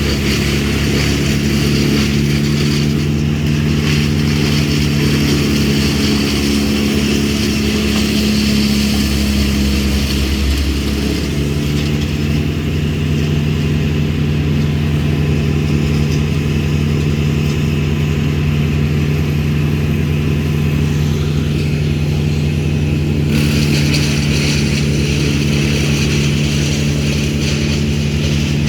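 An engine running steadily, its pitch stepping down once about eleven seconds in.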